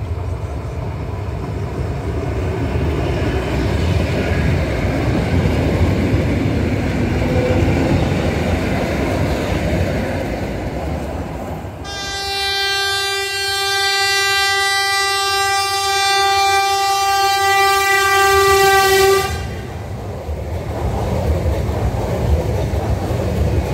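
Electric multiple unit trains running along the track with a steady rumble. About halfway through, a train horn sounds one long steady note for about seven seconds and cuts off sharply. Then an EN90 electric multiple unit passes close by with wheel and rail noise.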